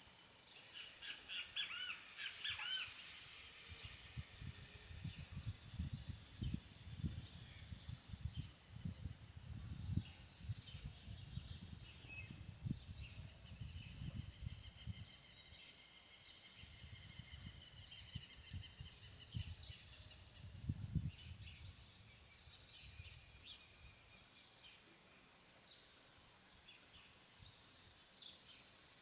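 Birds calling and chirping, with a run of warbling calls in the first few seconds and short chirps scattered throughout. An irregular low rumble comes and goes through the middle and dies away about three quarters of the way through.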